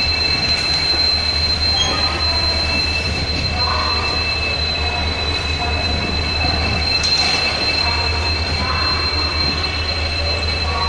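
Passenger coaches rolling slowly past with a steady rumble and a continuous high-pitched wheel squeal as the arriving train brakes toward a stop.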